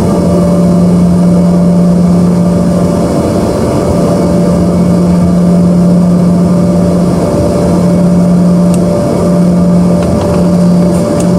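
Embraer ERJ-145's rear-mounted Rolls-Royce AE3007 turbofan engines heard from inside the cabin. They make a loud, steady roar with a constant low hum and a higher held tone, and a few faint clicks come near the end.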